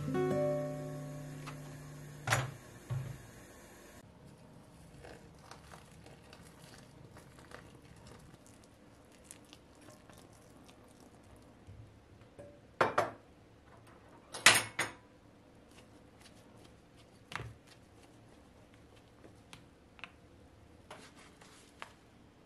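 Soft guitar music fades out in the first few seconds. Then a quiet room with scattered knocks and clinks of household objects being handled and set down; the loudest are two quick clusters of sharp knocks a little past the middle and a single knock a few seconds later.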